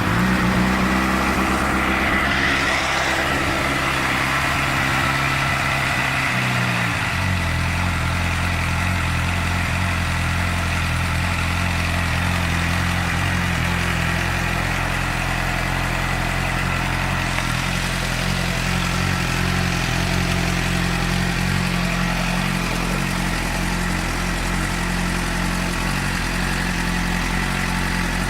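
2006 Suzuki GSX-R600's inline-four engine idling just after start-up; about seven seconds in the idle drops to a lower, steady note and holds there.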